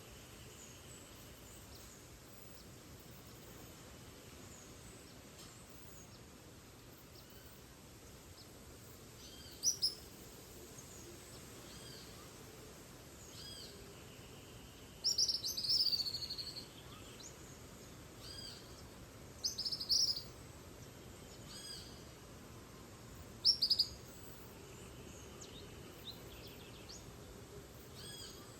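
Tropical rainforest dawn ambience: a steady soft hiss of background insects and forest noise, with a bird giving short, sharp, high calls about four times, a few seconds apart. The longest call comes about a quarter of the way past the middle.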